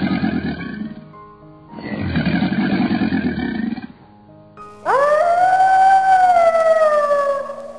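Two low, rough roars from a large animal, each about two seconds long, then one long howl that rises and slowly falls, typical of a wolf or dog.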